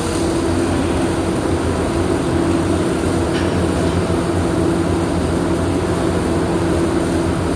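Steady workshop machinery drone: a constant low hum under an even hiss, unchanging throughout, as from welding machines and workshop equipment running.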